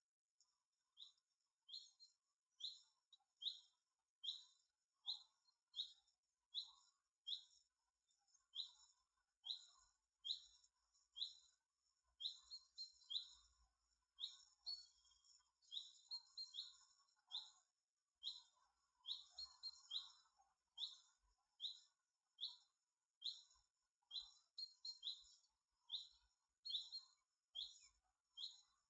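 A bird calling one short, repeated chirp over and over at a steady pace, a little more than once a second, with now and then a quick double note.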